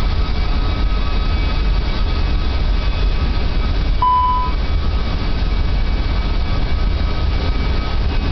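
Rolls-Royce Trent 500 turbofan engines running steadily at power during a ground engine run-up: a loud, deep, even rumble with faint steady whine tones above it. A single short beep sounds about four seconds in.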